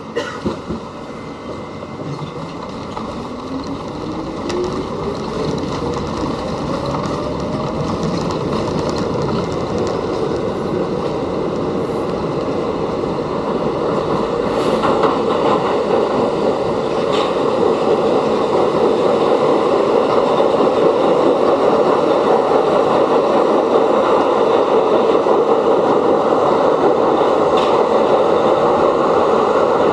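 New York City subway train pulling away and gathering speed: a rising motor whine over the first several seconds, and the rumble of the running train growing steadily louder.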